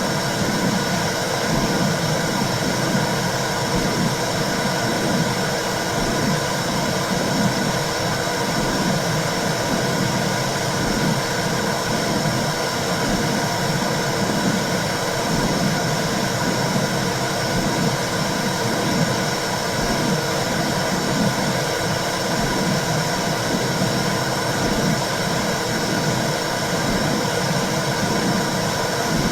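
Womb sound: a steady whooshing noise with a low, even pulse about once a second, like a heartbeat heard through the body.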